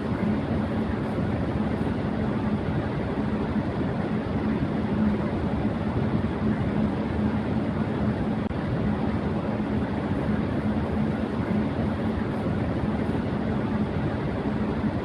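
Electric fan running at high speed: a steady airy whoosh with a low, even hum underneath, and one very brief dip in loudness about eight seconds in.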